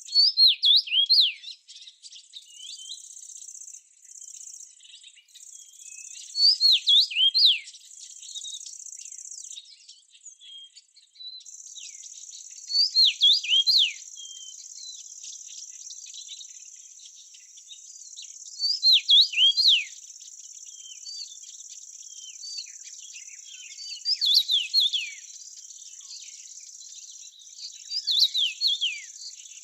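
A songbird repeating a short phrase of three or four quick downslurred whistles about every six seconds. Behind it runs a steady high-pitched trill of crickets.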